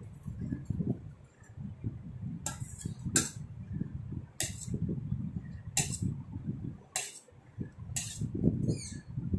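Cake-decorating utensils clinking: a spatula knocking against a bowl or cake board about once a second, over low handling noise while syrup and cream are worked onto the sponge.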